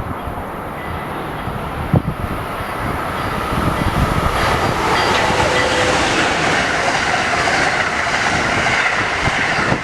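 Passenger train running through the station, its rumble and wheel noise on the rails growing louder from about four seconds in and staying loud to near the end.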